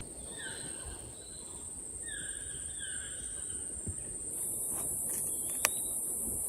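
Insects making a steady high-pitched drone that grows louder about four seconds in, with a bird calling three or four short falling notes in the first half. A single sharp click sounds near the end.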